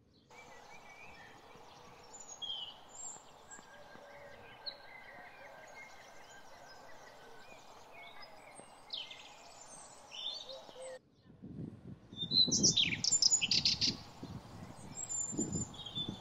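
Small songbirds chirping and singing over a faint steady background. About eleven seconds in the sound cuts to a louder scene with an uneven low rumble and one bird's quick run of loud repeated chirps.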